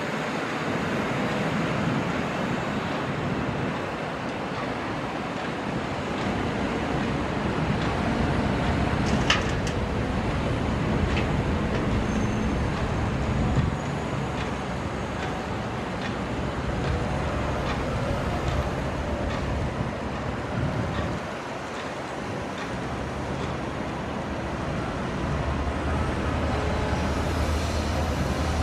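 Diesel engines of a CAT 320 crawler excavator and a CLAAS Elios tractor running steadily during loading, with a few sharp knocks about nine and thirteen seconds in.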